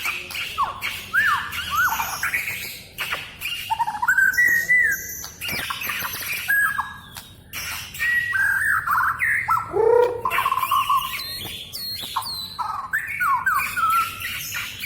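Oriental magpie-robin (kacer) singing a long, varied song of short rising and falling whistles and harsh notes, with sharp clicks mixed in. It has the chattering, talk-like run that magpie-robins are kept for.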